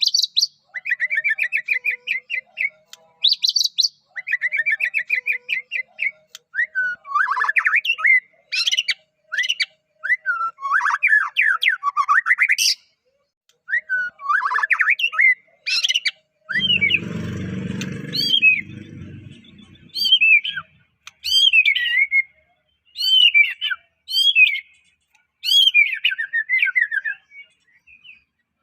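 White-rumped shama (murai batu) singing a long, varied song of loud whistled phrases, rapid trills and down-slurred notes. A brief muffled noise sounds about two-thirds of the way through.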